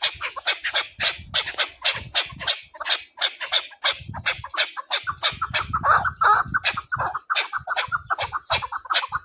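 Chukar partridge calling: a fast, unbroken run of harsh 'chuk' notes, about five a second, loudest about six seconds in.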